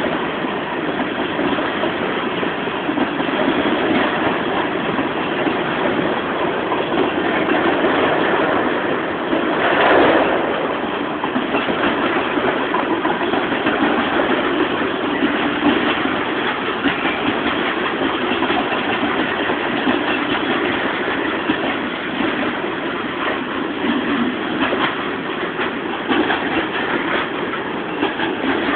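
Freight train of covered hoppers and boxcars rolling past: steady rumble and clatter of steel wheels on the rails, with a brief louder surge about ten seconds in.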